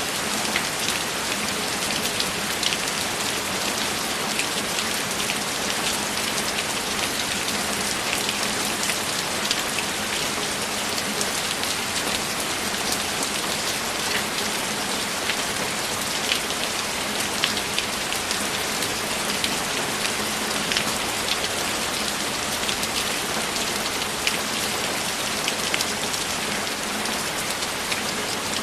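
Steady rain, with many individual drops ticking sharply over an even hiss.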